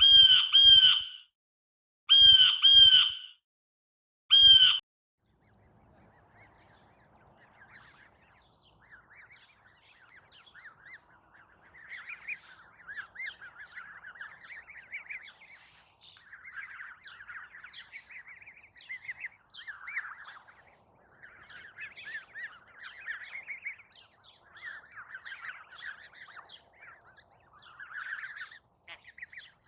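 Wild birds: five loud, harsh calls in the first five seconds, two, then two, then one. After them a flock of small birds twitters and chatters without a break, rising and falling in loudness.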